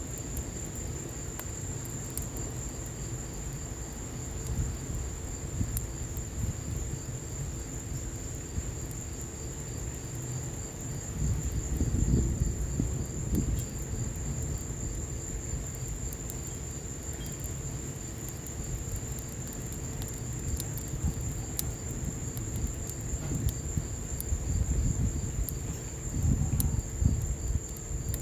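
Wood fire in an outdoor patio fireplace burning, with scattered sharp crackles, over a steady high-pitched trill. A low rumble swells twice, about a third of the way in and again near the end.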